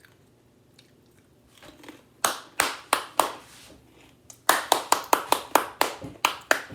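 Hands clapping in excitement: four claps, a short pause, then a quick run of about ten claps at roughly five a second.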